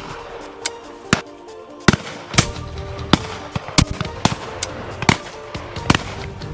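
Shotguns firing at driven pheasants: about a dozen sharp reports at irregular spacing from several guns, some loud and close, others fainter. Background music with steady held notes runs underneath.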